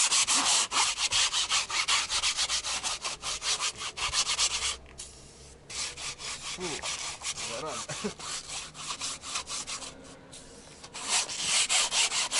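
A stiff brush scrubbing wet fabric car-seat upholstery with rapid back-and-forth strokes, in three bursts with short pauses between them. This is the cleaner being worked into the seat during an interior dry-clean.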